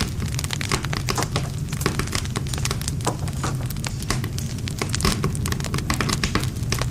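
Wood campfire crackling and popping: many irregular sharp snaps over a steady low rumble of the flames.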